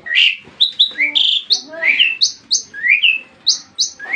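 Songbird singing loudly and without pause: a fast run of clear whistled notes, many sweeping sharply upward, a few notes a second.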